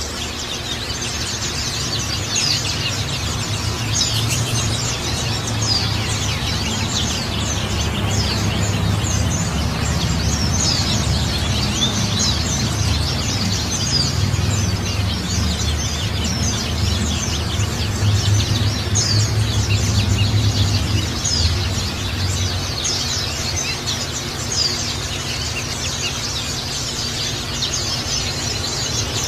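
Small songbirds chirping rapidly and continuously over steadily trickling water. A low rumble underneath drops away about three quarters of the way through.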